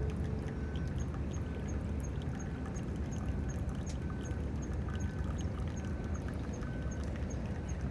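Campfire crackling with irregular sharp clicks over a steady low rumble, while a short high chirp repeats about three times a second.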